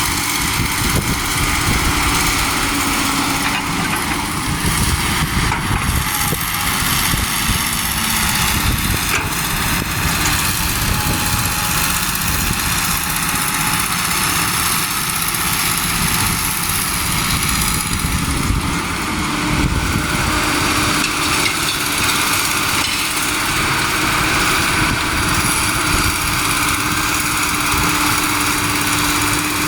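Truck engines running steadily, a continuous low engine rumble without pauses.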